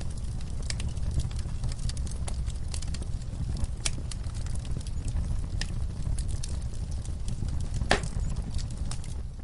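Wood fire burning in a fireplace: a steady low rumble of flames with irregular sharp crackles and pops, one loud pop near the end.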